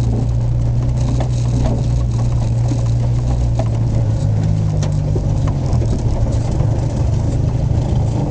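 Race car's engine running at low speed, heard from inside the cabin, with light knocks and rattles from the car. The engine note steps up slightly about four seconds in.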